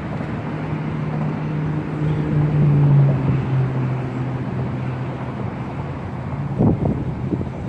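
An engine hums steadily, growing louder to about three seconds in and then dropping a little in pitch as it fades, like a motor vehicle passing. Near the end there are a few short knocks or rustles.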